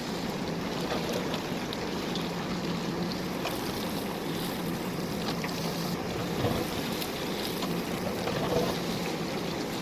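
JCB backhoe loader's diesel engine running steadily under work, with scattered light clicks.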